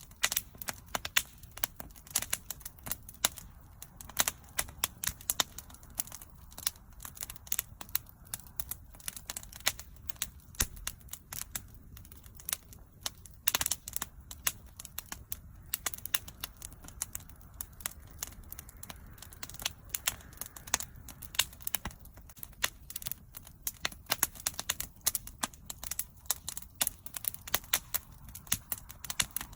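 Wood fire crackling: dense, irregular sharp pops and snaps several times a second over a faint low rumble of the burning fire.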